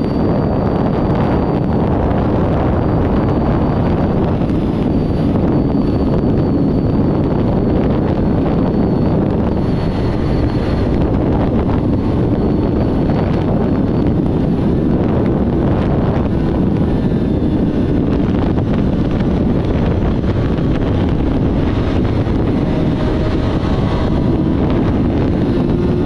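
Wind noise on the microphone while riding a 2006 Suzuki GSX-R1000 K6, its inline-four engine with full Akrapovič exhaust running at a steady cruise underneath. The sound stays even, with no clear revving.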